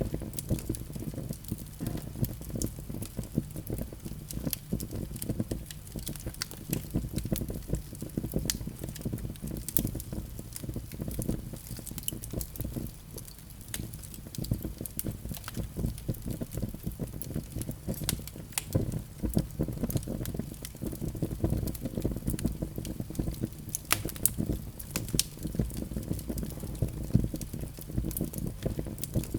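Fire in a fireplace crackling: frequent irregular pops and snaps over a steady low rumble of the flames.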